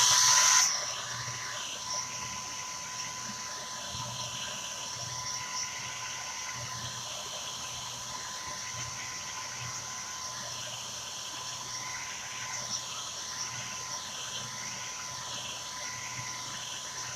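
Handheld dryer blowing steadily to dry freshly applied chalk paste: rushing air with a steady high whine, louder for the first half second.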